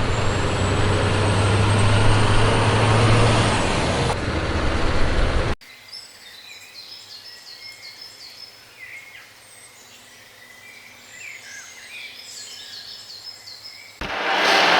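Loud, noisy vehicle motor sound with a steady low hum that cuts off abruptly about five and a half seconds in. Faint bird chirps follow in a quieter stretch, and the loud motor noise comes back suddenly near the end.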